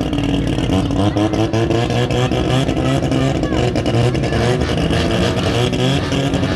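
Turbocharged Mazda 13B rotary engine running loudly, its pitch wavering a little up and down.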